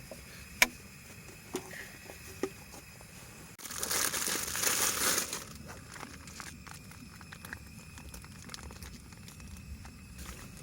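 A sharp click and two lighter knocks, then about two seconds of loud crinkling and rustling, as of something being handled, over a steady low rumble.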